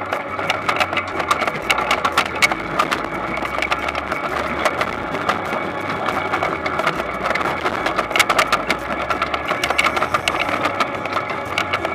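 Toyonoki potato harvesting machine running, with a steady mechanical hum under continuous rattling and clicking.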